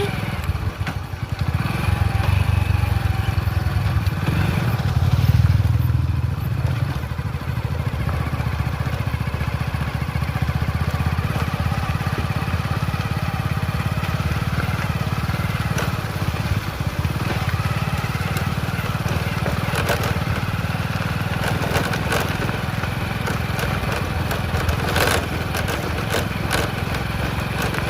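Motorcycle running on the road during a ride, with a heavy low wind rumble on the microphone. It is louder for a few seconds near the start, then steady.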